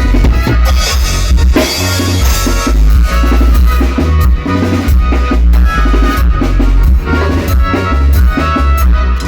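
Band music playing loud and steady, an instrumental passage: a drum kit keeps a beat of kick and snare hits over a heavy bass line, with held melodic notes on top.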